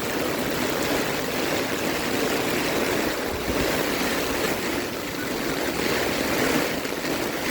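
Steady heavy rain pouring down, an even hiss.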